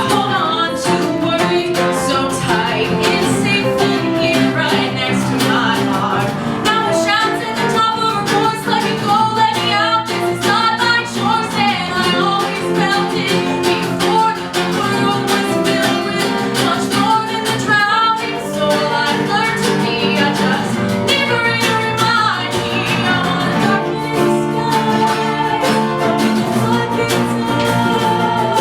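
A woman singing a pop song live, with guitar accompaniment.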